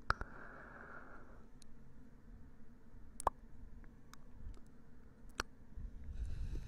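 A few sharp, close-up clicks and taps, spaced a second or two apart, over a faint low rumble, with a soft brushing noise in the first second.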